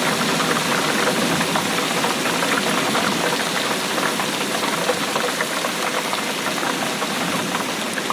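Steady rain falling, a dense patter of countless fine drops hitting a surface.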